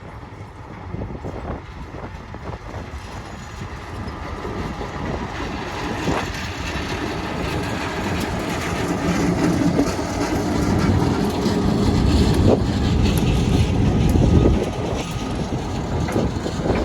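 Buffalo & Pittsburgh diesel locomotives running light, with no cars, approaching and passing. The engine sound grows steadily louder and is loudest about three-quarters of the way through, with sharp clicks of the wheels over rail joints.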